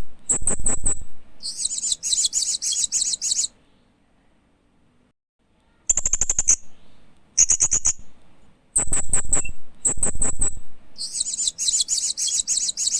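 Hanging parrot (Loriculus) calling: bursts of rapid, high-pitched chirps strung into trills, each burst a second or two long, with a pause of about two seconds near the middle before the chirping resumes.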